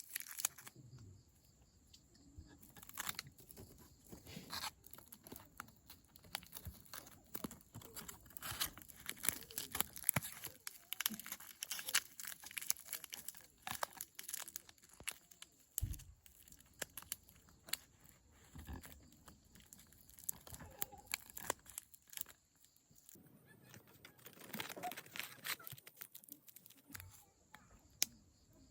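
Plastic crinkling and rustling in the hands, with many small irregular clicks and taps, quieter for a moment about two-thirds of the way through.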